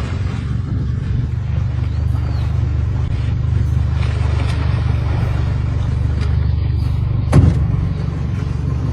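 A vehicle engine idling steadily as a low rumble, with a single loud thump about seven seconds in.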